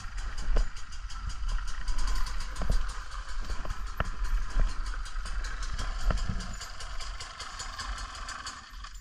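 Off-road bike on the move, heard from a camera mounted on the bike: wind rumbling over the microphone under a rapid, even ticking rattle. It eases off over the last couple of seconds.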